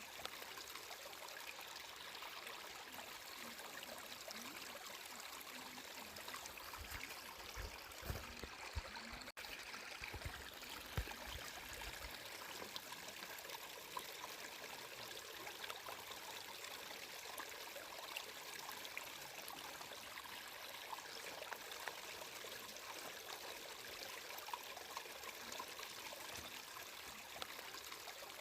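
Water flowing steadily in a small stream, trickling and splashing faintly, with a few soft low thumps about a third of the way in.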